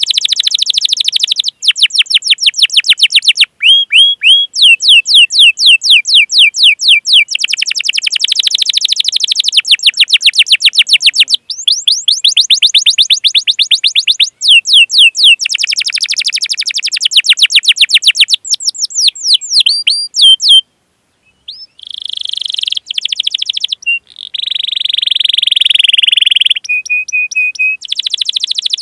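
Domestic canary singing: long phrases of fast repeated chirps and rolling trills, high-pitched, with a short break about two-thirds of the way through.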